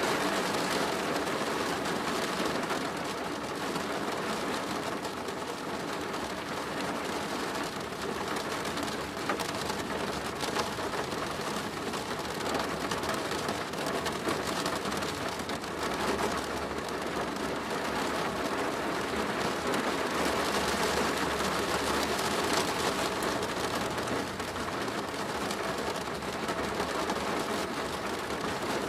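Steady rain drumming on a plastic roof: a dense, even patter of drops.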